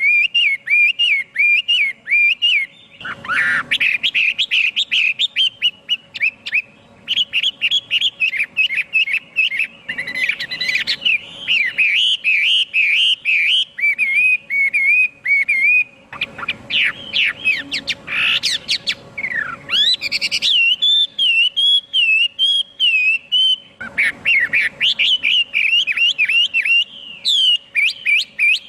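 Chinese hwamei singing a long, loud, varied song of rapid whistled phrases that warble up and down, broken only by brief pauses.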